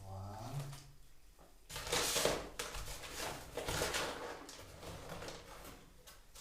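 Irregular scraping and rustling handling noises, with louder bursts about two and about four seconds in. A brief murmur of voice comes at the start.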